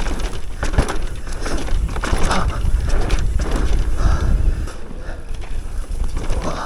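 Electric mountain bike riding down a dirt trail: wind buffets the microphone in a steady low rumble while the tyres run over dirt and the bike knocks and rattles over bumps at irregular moments.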